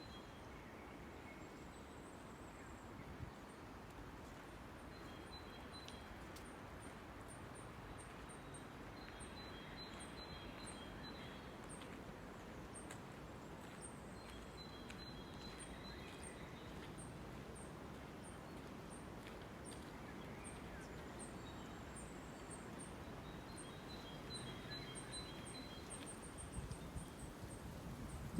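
Faint forest ambience: a steady hiss with songbirds calling. One bird gives a very high, thin note about twice a second, and another repeats a short phrase every few seconds.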